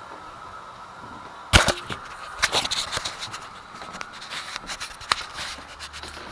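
A sharp knock about a second and a half in, then a run of irregular clicks, rattles and scrapes of hard objects being handled, over a faint steady hum.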